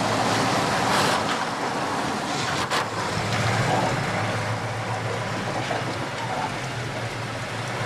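Heavy truck engine running steadily as the truck drives along a muddy track, with a single sharp knock about three seconds in.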